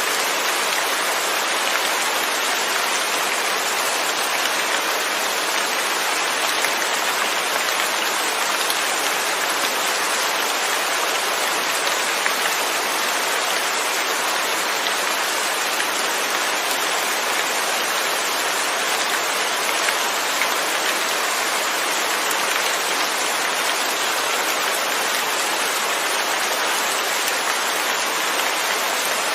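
Steady rain falling, with no thunder.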